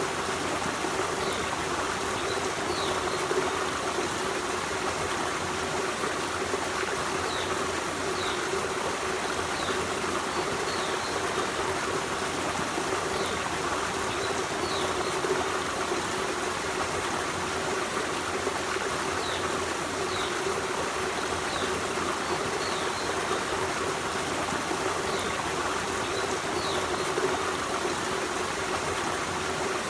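Forest stream running steadily over rocks, an even rush of water with trickling. Short high chirps recur every second or two above the water.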